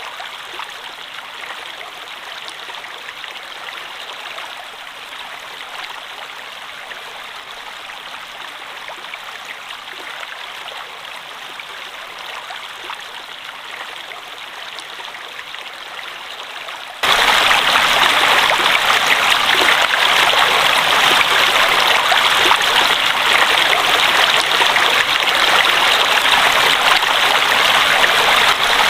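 Running water rushing steadily. About seventeen seconds in, it jumps abruptly to a much louder, fuller rush.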